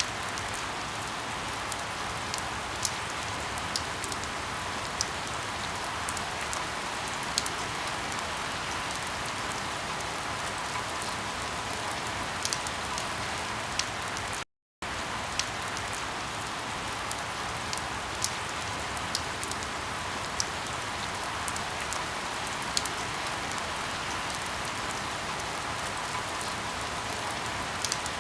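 Steady rain with sharp crackles of burning firewood scattered through it. The sound cuts out for a moment about halfway through.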